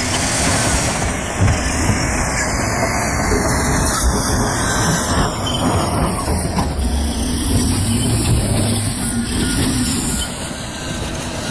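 Heavy machinery running with a steady engine rumble and broad mechanical noise.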